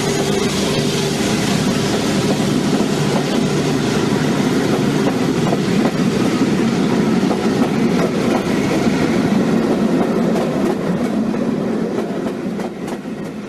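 Bachmann OO gauge model train running on its track: a steady motor hum with wheel clatter, fading out near the end.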